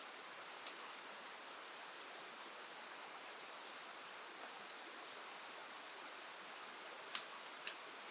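Steady hiss of rain and the river, with a few sharp crackles from the burning wood of a campfire, clustered near the middle and near the end.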